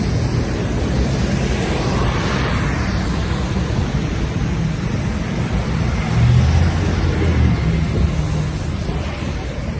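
City street traffic on wet roads: a steady wash of engine noise and tyre hiss. A heavy vehicle's low engine rumble swells about six seconds in and fades over the next couple of seconds.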